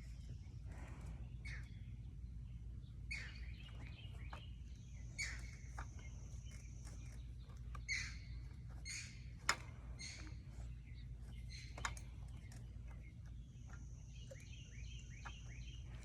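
Small birds chirping in short, scattered calls, over a steady low background rumble, with a thin high steady tone twice and a couple of sharp clicks, the loudest about nine and a half seconds in.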